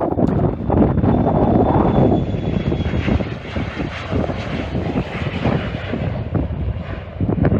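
Airliner's engines heard as a passing plane goes by close, loudest in the first two seconds and then easing a little, with a faint high whine that fades about three seconds in. Wind buffets the microphone throughout.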